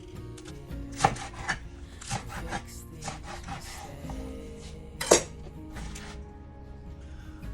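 Cooking sounds: irregular knocks and scrapes of a utensil working silverbeet and garlic in a pan or on a board. The loudest knock comes about five seconds in.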